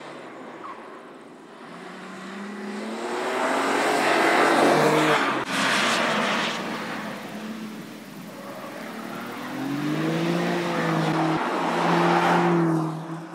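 A BMW M2 Competition's three-litre twin-turbo straight-six is driven hard on a track, swelling as the car passes, with the engine note shifting pitch through gear changes. It breaks off abruptly about halfway through, then builds to a second loud pass near the end.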